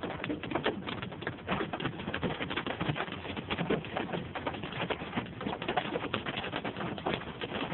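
Hail falling hard: a dense, irregular clatter of hailstones striking, many small impacts a second with no let-up.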